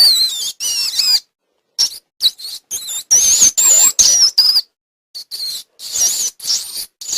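Rats squeaking: a rapid, irregular run of short, high-pitched squeaks, some sliding up and down in pitch.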